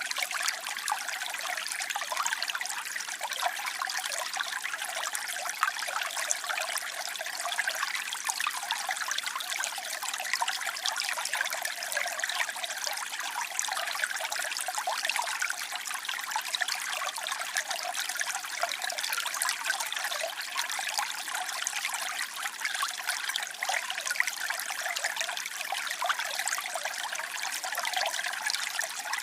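Waterfall: water cascading in a steady, unbroken splashing hiss, bright and airy with little low rumble.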